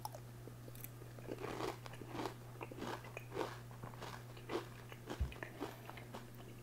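A mouthful of Frosted Flakes with milk and cheese slices being chewed: faint, irregular crunches, several a second at times, over a low steady hum.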